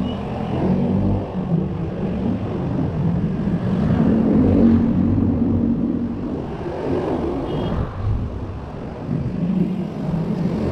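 Street traffic heard from a bicycle: engines of nearby motor vehicles running, one louder and nearer between about four and six seconds in. A brief high chirp sounds about two-thirds of the way through.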